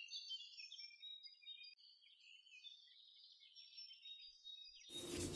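Near silence with faint bird chirping: short, high twitters that change pitch, and nothing lower. A low hiss comes in near the end.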